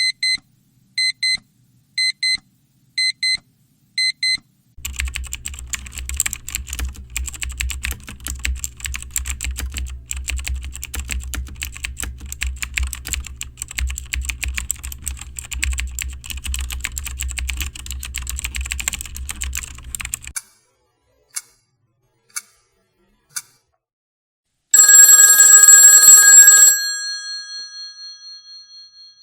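A sequence of stock sound effects: a phone ringing in short high double beeps about once a second, then fast continuous typing on a computer keyboard, a few single clicks, and finally a loud ringing hit whose tones fade out over a few seconds.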